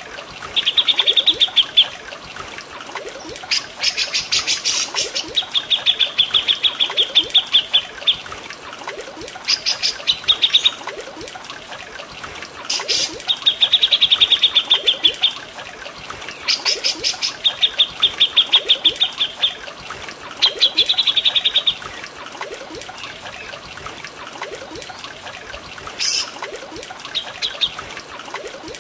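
Recorded birdsong of cucak jenggot (grey-cheeked bulbul) and cililin: rapid trilled phrases a second or two long, repeated every few seconds, with sharper, higher bursts between them, over a steady trickle of running water.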